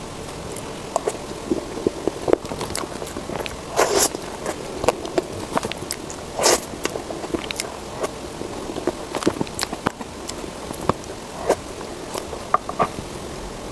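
Mouth eating sounds: irregular chewing and biting, many small wet clicks and crackles, with louder bites about four seconds and six and a half seconds in.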